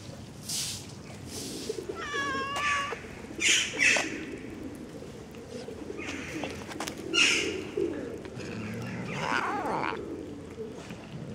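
Birds calling, one with a wavering, trilling call about two seconds in, and cooing under it, against a few short crinkles of a plastic bag as the fish in it is handled.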